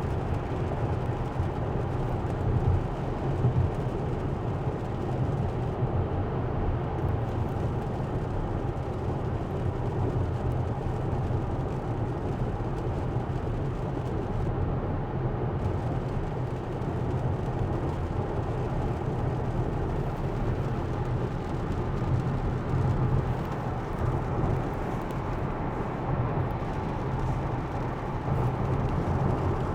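Steady road and tyre noise inside a Tesla's cabin as it drives at freeway speed on rain-wet pavement, a low, even rumble with no engine note.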